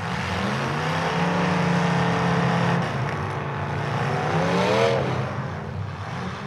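Demolition derby car engine revving hard, its pitch climbing, holding, dropping and then climbing again before falling off near the end.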